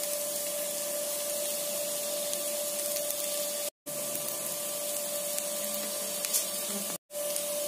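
Egg fried rice frying in a kadai: a steady sizzling hiss with a steady hum beneath it. The sound drops out abruptly twice, briefly each time.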